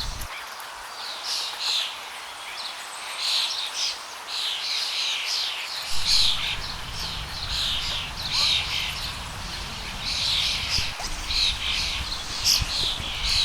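Birds chirping over and over in short high calls, with a low rumble coming back about six seconds in.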